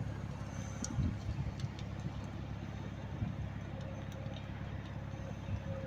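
A motor vehicle engine idling steadily as a low rumble, with a few faint scattered ticks.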